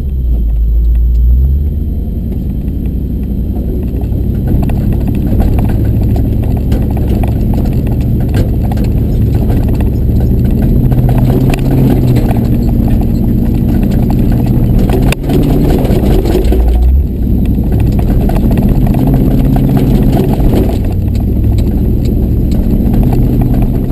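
A truck's engine running as it drives slowly over a rough snowy trail, its revs rising and falling twice, with a steady clatter of small knocks and a sharp knock about fifteen seconds in.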